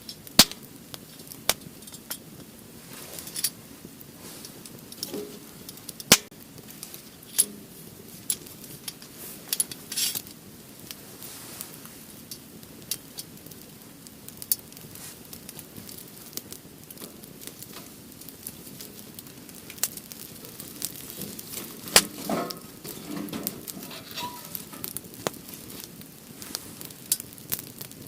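Wood fire crackling, with scattered sharp pops and snaps. Around two-thirds of the way in, a loud knock is followed by a short spell of clinking.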